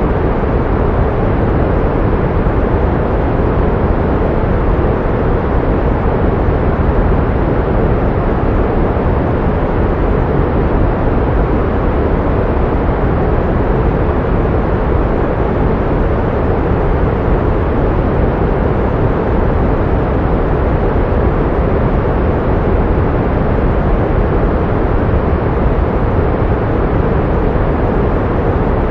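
Pink noise: a steady, unchanging hiss that is fuller in the low end and softer in the highs.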